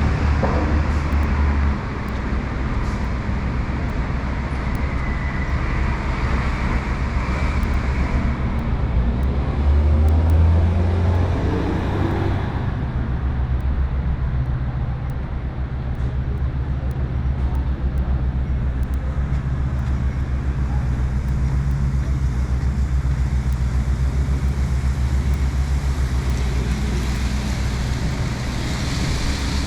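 City street traffic: a motor vehicle's engine running close by with a steady low hum. Another vehicle swells past about ten to twelve seconds in.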